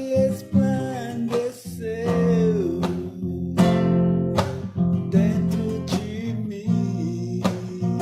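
Acoustic guitar strummed in a slow, even rhythm, about one chord a second, in an instrumental passage of a gospel song.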